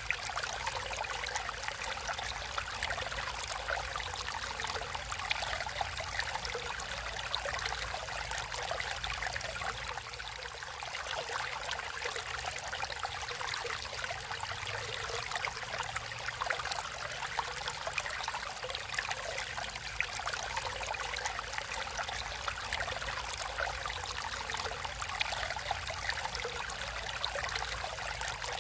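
Natural water flowing steadily over rocks, a continuous rushing with fine trickling and splashing.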